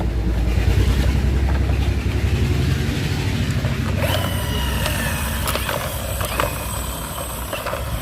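Plastic toy wheels being handled and pressed onto a toy bus's axles, with sharp clicks as they snap on in the second half, over a steady low hum.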